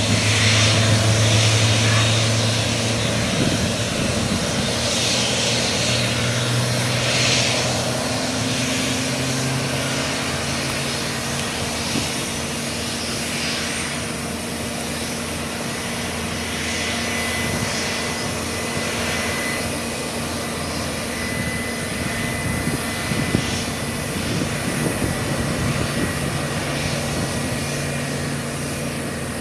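Jet airliner's engines running: a steady low hum under a wide hiss with a faint high whine, easing slowly.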